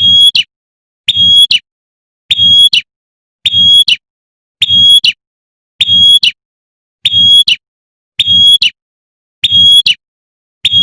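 Female prinia (prenjak) giving its sharp 'tembakan' call over and over, very evenly, about one short call a second, with a faint low hum under each call and silence between them. It is a repeated lure call of a female calling a male.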